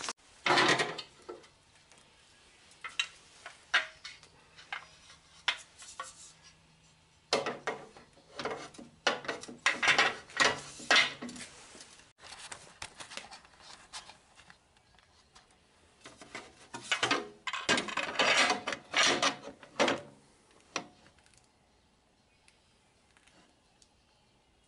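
Irregular clattering and clinking of hard parts and tools being handled and set down during machine assembly, in several bursts of sharp knocks. It goes quiet about 21 seconds in.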